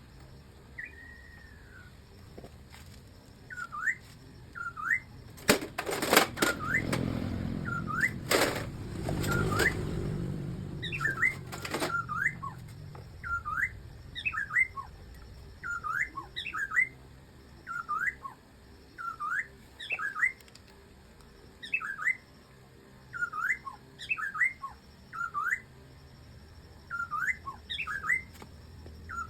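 A bird chirping over and over, short hooked chirps about once a second. Early on, a cluster of sharp knocks comes with a low rumble.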